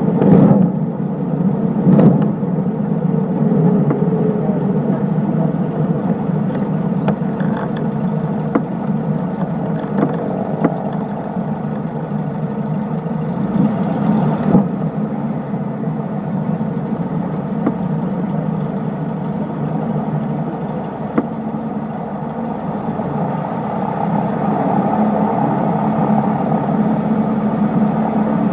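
Cessna 152's four-cylinder Lycoming O-235 engine and propeller running steadily in flight, an even loud drone, with a few brief clicks near the start and a short rush of noise about fourteen seconds in.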